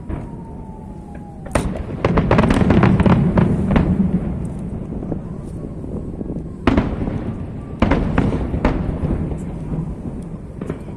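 Aerial fireworks shells bursting: a sharp bang, then a rapid run of reports over a heavy low rumble, then three more big bangs about a second apart.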